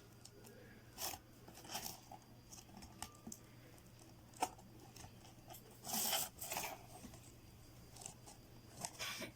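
Cardboard pieces being handled and pressed together: scattered short rustles and light taps, the loudest about six seconds in, over a faint steady hum.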